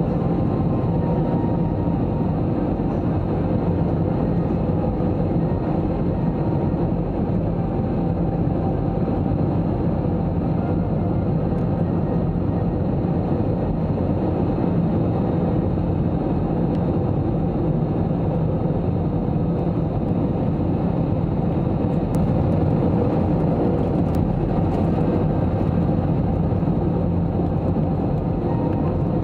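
Steady cabin noise inside an Airbus A321-200 airliner in flight: a continuous low roar of the engines and airflow.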